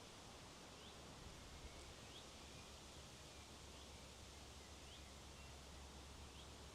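Faint, steady outdoor hiss with a small bird repeating a short, high, rising call about every second and a half.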